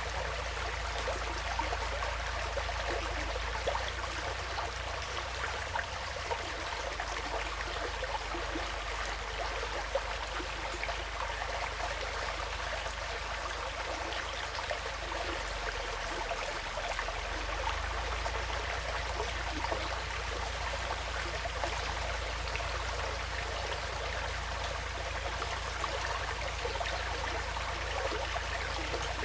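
Woodland stream flowing steadily, an even rush of water with a low rumble underneath.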